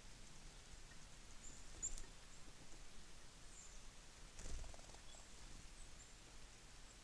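Faint, scattered high chips and call notes of small birds, with a sharp click about two seconds in and a soft thump about halfway through.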